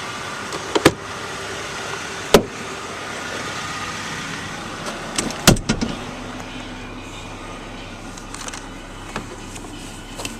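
Handling sounds on a 2009 Ford Ranger pickup over a steady low hum: a couple of sharp clicks, then a heavier clunk about five and a half seconds in.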